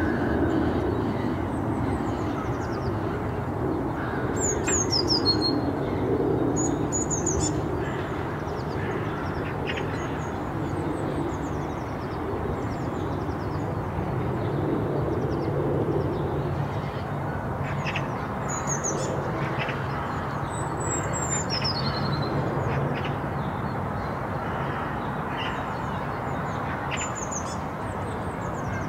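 Outdoor park ambience: birds calling with short, high chirps that fall in pitch, every few seconds, over a steady low rumble of background noise.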